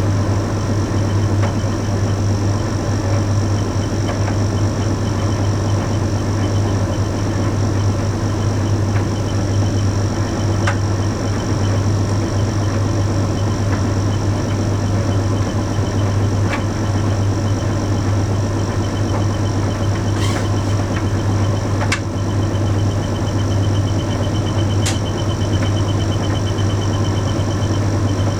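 Bosch Series 6 heat pump tumble dryer running steadily mid-cycle on a load of shirts, with a strong low hum and a few light clicks scattered through.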